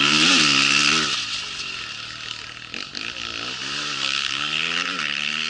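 Rally motorcycle engine at full throttle, revs climbing and dropping again and again with gear changes as the bike passes. Loudest in the first second, then fading, with the revs picking up again about four seconds in.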